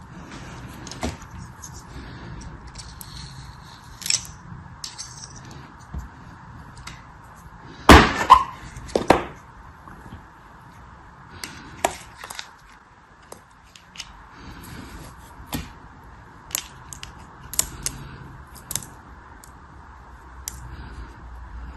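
Close-miked crushing and crackling of a craft material: scattered crisp crackles and clicks, with two loud sharp cracks about eight and nine seconds in, over a steady hiss.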